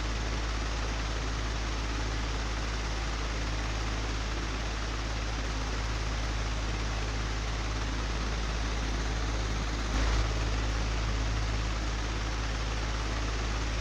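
Old, broken electric fan running steadily: an even airy rush over a constant low hum. A brief louder knock about ten seconds in.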